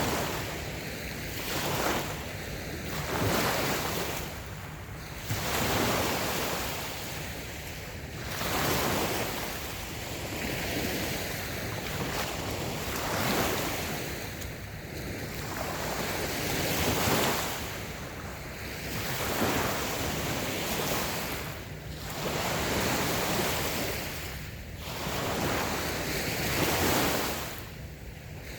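Small waves breaking and washing on a sandy beach, the surf swelling and ebbing every few seconds, with some wind on the microphone.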